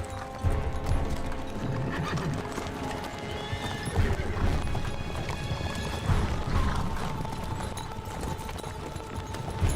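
Horses' hoofbeats with a horse neighing, over background film music.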